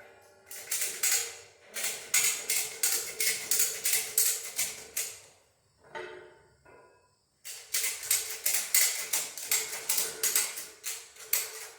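Rapid, evenly repeated metallic clacks, about three or four a second, with a steady metallic ring under them, from work on the disc harrow's steel gang. The clacks stop for about two seconds partway through, then start again.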